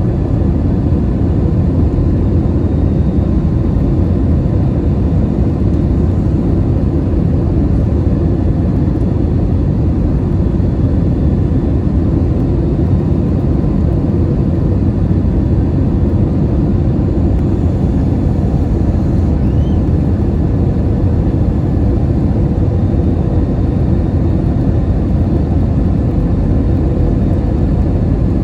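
Steady in-flight cabin noise of an Airbus A321-200: an even roar of airflow and its CFM56 engines, heavy in the low end, with a faint steady hum over it.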